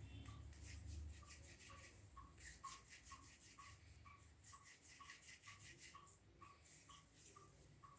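Faint rubbing of hands rolling soft chhana dough between the palms to shape langcha, in quick strokes, strongest in the first half. A faint, regular tick about twice a second runs underneath.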